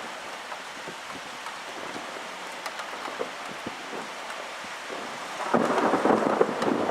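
Rain falling during a thunderstorm, with scattered drops ticking close by; about five and a half seconds in, a much louder rumble of thunder breaks in and carries on.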